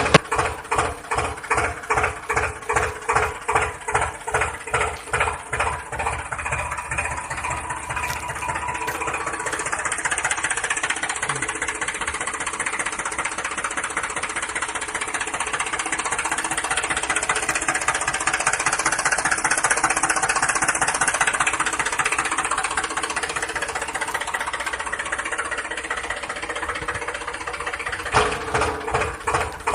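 A toy vehicle's engine sound chugging in even pulses about twice a second, settling into a denser, steady running sound from about eight seconds in, then pulsing again near the end.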